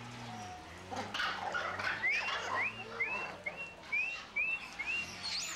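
A bird calling: a run of about seven short whistled notes, each rising then levelling off, about two a second, starting about two seconds in, over a background of rustling and clatter.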